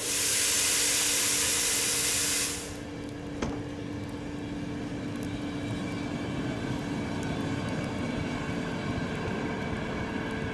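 Double-deck electric commuter train pulling away: a loud hiss of released air for about two and a half seconds, then a single click. After that a steady electric hum runs under a rumble of wheels on rail that grows as the train gathers speed.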